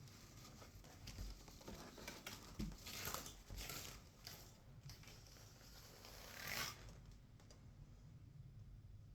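Faint rustling and handling noises with scattered clicks, louder in two rough swells about three seconds and six and a half seconds in.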